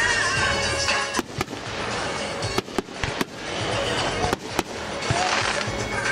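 Aerial fireworks bursting: sharp bangs every second or so over a continuous crackling hiss.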